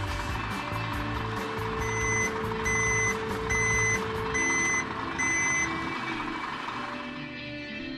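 Truck reversing alarm beeping five times, about one beep a second, over background music. The beeps start about two seconds in and stop near six seconds.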